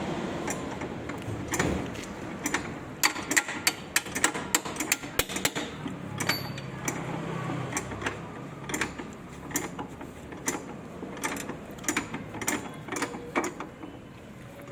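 Irregular sharp metallic clicks and clatter of suspension parts and tools being handled, coming fast and close together for a few seconds, then more scattered.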